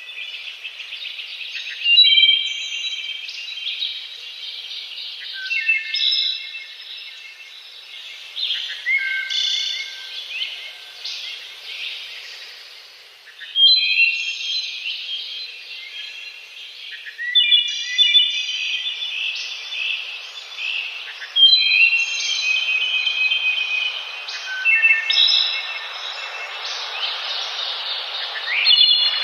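Songbirds chirping and trilling, in quick phrases of short high notes that come every few seconds, over a steady background hiss.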